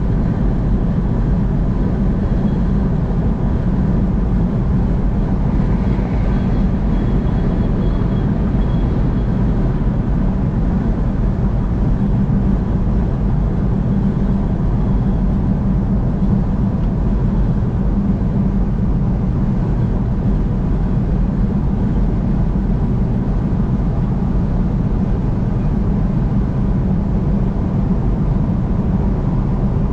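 Steady road and engine noise of a vehicle cruising on the interstate, a constant low drone with no sudden events.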